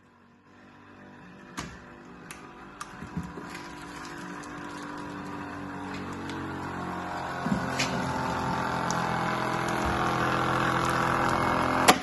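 Vacuum cleaner motor running, growing steadily louder, with a few clicks and knocks along the way. A loud click comes near the end, and the sound drops away after it.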